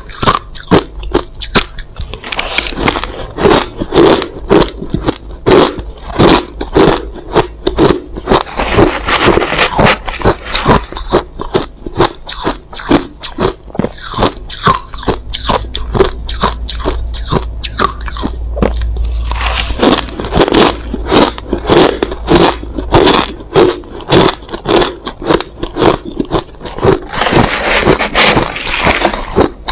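Crushed ice being bitten and chewed close to the microphone: a dense run of sharp, loud crunches, several a second, with heavier bursts of crunching every several seconds as fresh mouthfuls are bitten.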